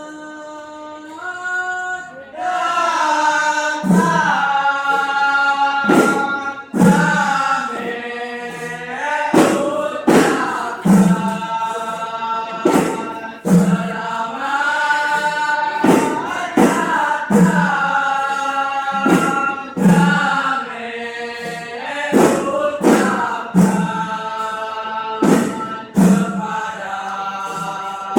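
A group of voices sings a chant-like devotional song in unison, the notes held and sliding, over drum strokes that fall about every one to two seconds. The singing swells in about two seconds in.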